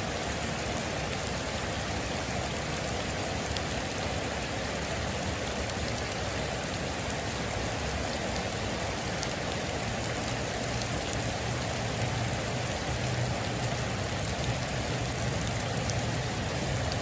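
Heavy rain falling steadily: a dense, even hiss of rain with a few faint sharper drop ticks scattered through it.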